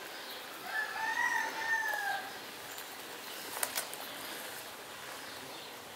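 A single drawn-out bird call about a second in, lasting about a second and a half and arching slightly up then down. Two sharp clicks follow near the middle.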